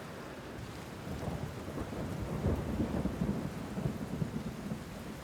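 Steady rain with a low rumble of thunder that swells about a second in and fades near the end.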